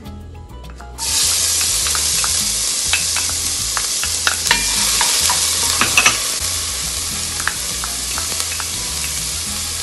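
Chopped onion hitting hot coconut oil in a pot, setting off a sudden sizzle about a second in that keeps on steadily as onion and grated garlic are sweated. Light spoon taps on the cup and pot sound over the sizzling as they are scraped in.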